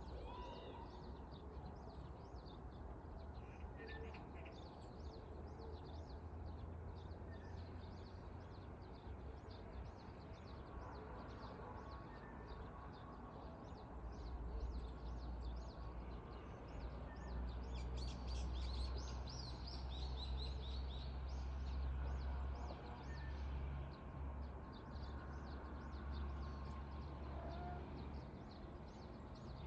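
Small birds chirping and twittering steadily, with a busier, louder flurry of chirps a little past halfway, over a low rumble that swells about halfway through.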